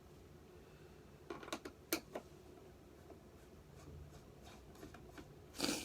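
A few sharp clicks and knocks of plastic vacuum-cleaner housing parts being handled about a second and a half in, then a short scrape near the end.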